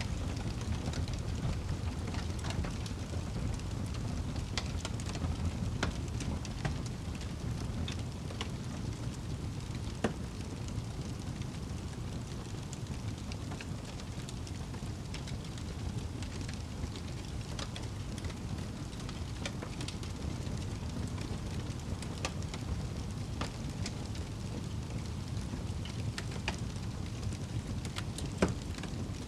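Wood fire crackling in a fireplace: a steady low rumble of flames with scattered sharp pops, the loudest about ten seconds in and another near the end.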